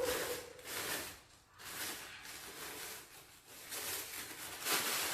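Crinkling rustle of something being crumpled and handled by hand, in several irregular bursts.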